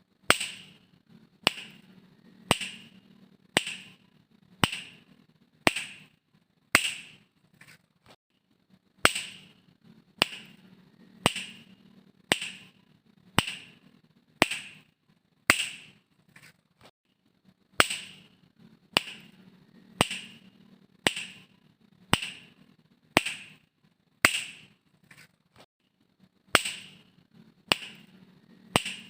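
Fingers snapping in a steady beat, about one crisp snap a second, in runs of about seven with short pauses between them.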